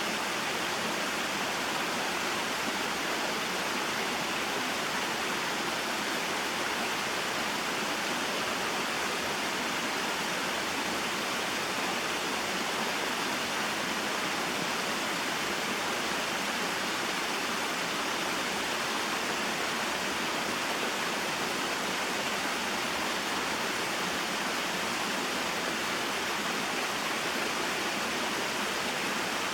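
Small waterfall and mountain stream: a steady, unbroken rush of flowing water.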